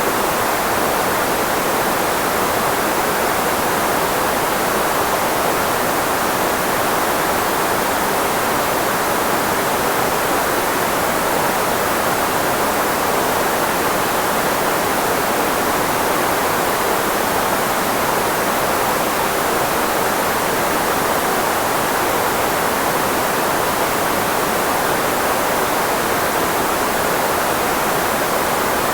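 Steady filtered white noise, shaped so that it is strongest in the range of the human voice, used as a speech blocker. It is an even hiss with no changes.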